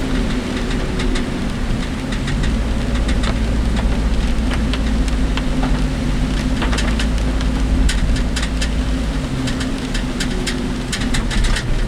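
Work vehicle driving in heavy typhoon rain, heard from inside the cab: a steady engine and road hum, with many sharp clicks and rattles from the body and rain striking it.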